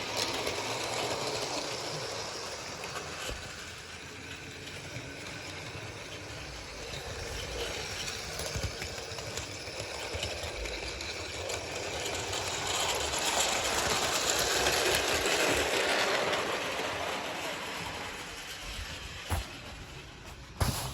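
Bachmann model train running on its track: a steady rumble and rattle from the small electric locomotive and its trucks. It grows louder towards the middle, then fades, with a couple of sharp clicks near the end.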